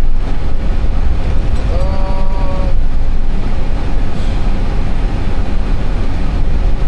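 Steady, loud low rumble of an Airbus A320 taxiing, heard inside the cockpit. A short pitched tone of about a second sounds just under two seconds in.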